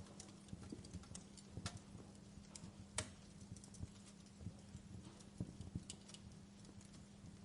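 Wood fire crackling in a fireplace: faint, irregular pops and snaps, with one sharper pop about three seconds in, over a steady low hum.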